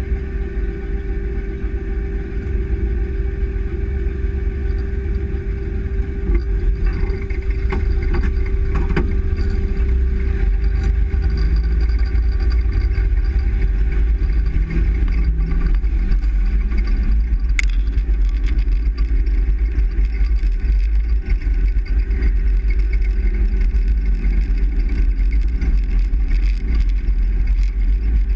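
Truck driving, heard from inside the cab: a steady low rumble of engine and road noise. A steady hum fades out about ten seconds in, and there are a few faint clicks.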